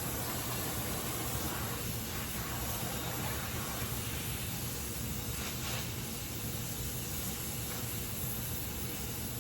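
Gas welding torch flame hissing steadily while aluminium is flame-welded.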